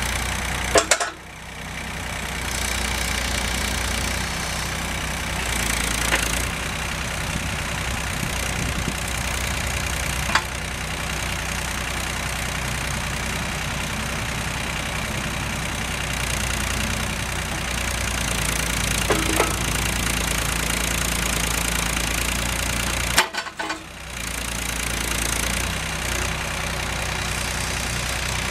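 The diesel engine of a Volvo ECR38 mini excavator running steadily at idle. The sound drops out briefly about a second in and again near the end.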